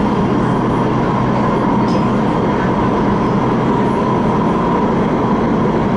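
CRRC Changchun electric multiple-unit train of the MTR West Rail Line running at a steady speed: an even rumble of the moving train with a steady high whine on top.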